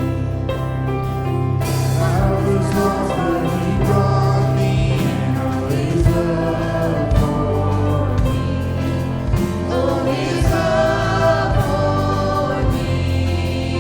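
Church worship band playing a contemporary worship song: voices singing over sustained bass notes, with scattered drum hits.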